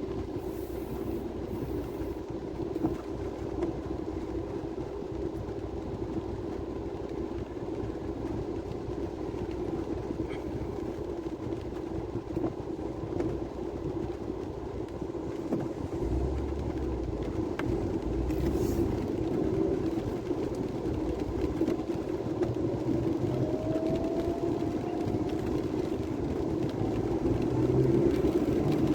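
Vehicle running while being driven, heard from inside: a steady engine and road drone, with a short rising tone about three-quarters of the way through.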